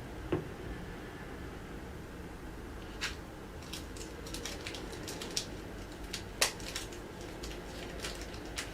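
A single soft knock, then irregular light clicks and ticks, a few a second from about three seconds in, over a steady low room hum.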